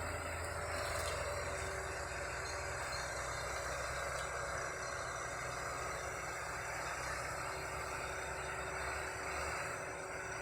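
Heavy diesel engine of the recovery machinery or truck running steadily at low revs, its deep hum thinning out near the end.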